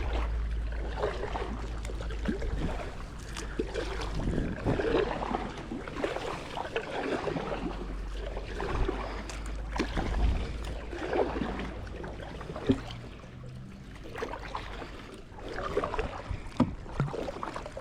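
Kayak paddle strokes splashing and dripping in the water, coming every second or two, over a low rumble of wind on the microphone that eases off after the middle.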